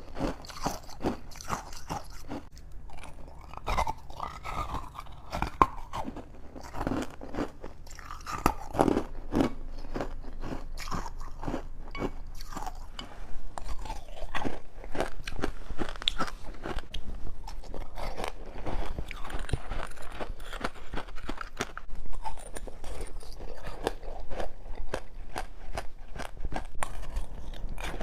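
A person biting and chewing freezer frost soaked in passionfruit juice, a dense run of irregular crunches, several a second.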